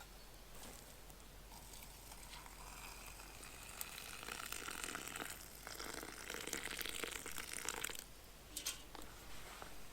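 Rustling and crinkling from something being handled, building over a few seconds and stopping suddenly about eight seconds in, followed by a couple of sharp clicks.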